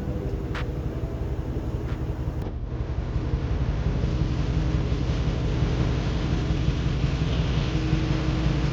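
Background music for about the first two seconds, then a cut to a steady, low engine rumble, most likely the Mercedes-Benz G63's engine running after its oil and filter change.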